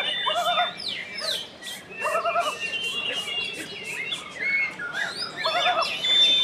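White-rumped shama singing a fast, varied song of clear whistles and quick sweeping notes, with a short warbled phrase repeated three times.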